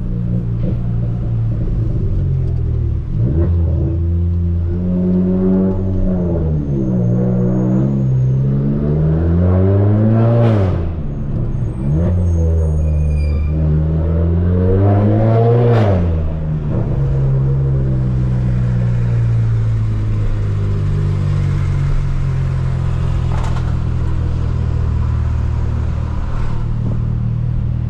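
Stage 2 tuned Volkswagen Polo GTS turbocharged four-cylinder with a sport exhaust, accelerating hard twice: the revs climb, then drop abruptly with a sharp crack at each shift. The engine then settles to a steady cruise.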